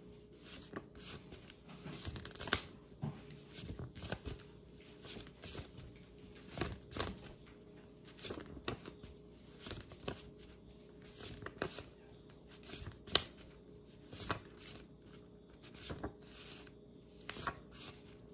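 Faint, irregular rustling and light clicks of something being handled, over a steady low hum.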